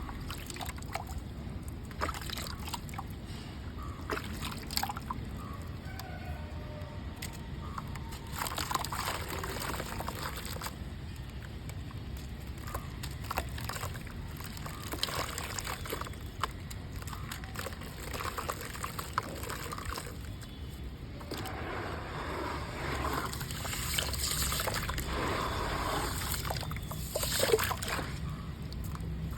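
Gritty red mud crumbling into water: crunching and crackling with sloshing and trickling. The crumbling grows busier and louder about three quarters of the way through.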